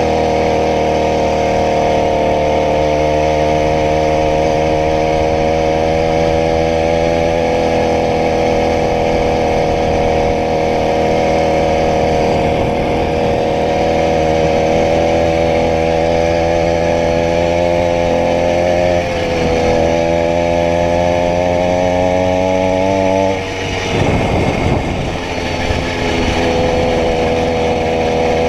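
80cc two-stroke bicycle engine running steadily at a fast idle. Its pitch shifts slightly now and then, wavers and drops briefly a few seconds before the end, then settles back.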